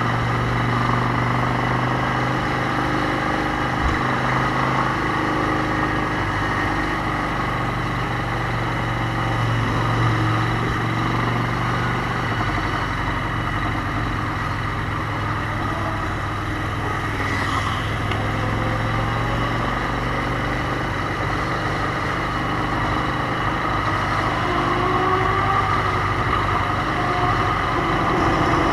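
Motorcycle engine running at a steady pace with road and wind noise, growing a little louder near the end.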